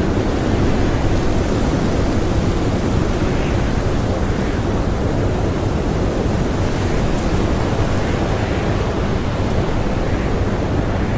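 Blizzard wind blowing steadily, a dense rushing noise heaviest in the low end, with no distinct gusts.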